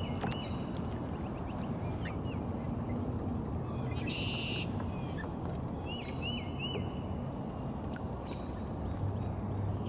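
Birds calling over a steady low rush of noise: short, hooked chirps in a cluster near the start and again about six seconds in, with a brief buzzy call about four seconds in.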